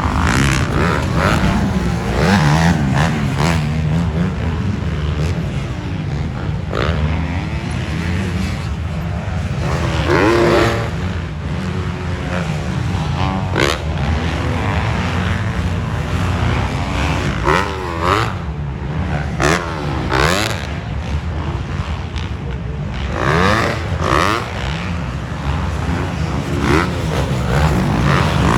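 Several motocross dirt bikes racing, their engines revving up and falling back again and again, with several bikes at different pitches at once.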